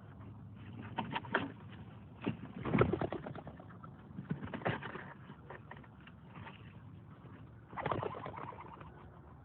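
Homing pigeons cooing and fluttering in several short bursts a second or two apart.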